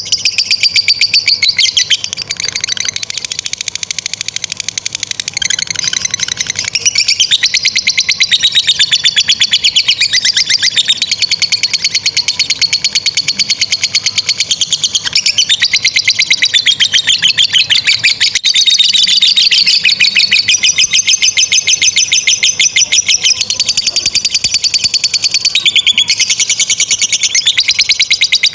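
Lovebirds giving long, rapid, high-pitched chattering trills, the 'ngekek panjang' song that hobbyists prize. The trills run on almost without a pause, their pitch sweeping up and down.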